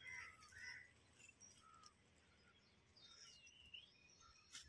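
Near silence with faint, scattered bird chirps and a single soft click near the end.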